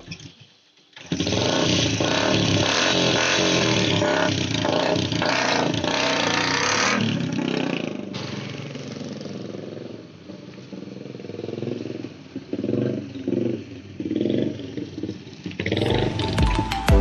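Modified Bajaj CT100 motorcycle's single-cylinder engine running through a loud aftermarket exhaust. It begins abruptly about a second in and runs loud for several seconds, then settles lower. Near the end there is a series of short revs.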